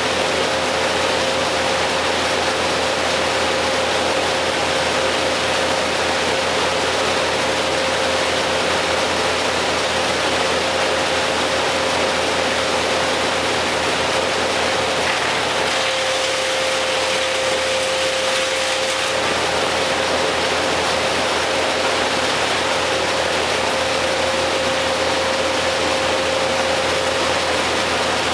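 Heavy machinery running steadily: an even mechanical hiss with a constant hum, with no rise or fall in speed.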